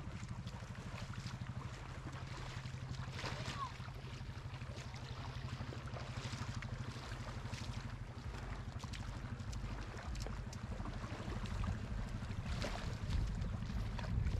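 An engine running at a steady speed, a low, even rumble with a faint hiss and a few light ticks over it.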